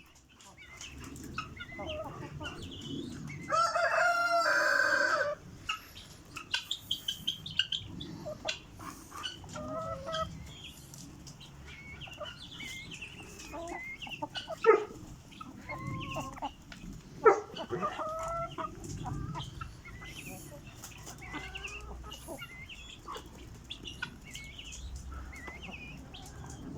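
Chickens clucking and calling, with a loud rooster crow about three and a half seconds in that lasts nearly two seconds, then short scattered clucks and calls.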